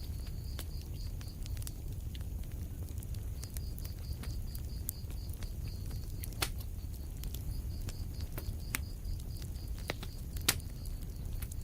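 Wood fire burning in a fireplace: a steady low rumble of flames with scattered sharp crackles and pops, the loudest about six and a half and ten and a half seconds in.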